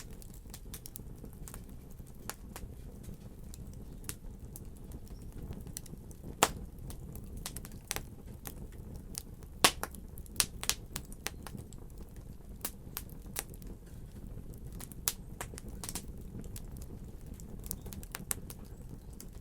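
Fire crackling: irregular sharp pops and snaps over a low steady rumble, with the loudest pops about six and a half and ten seconds in.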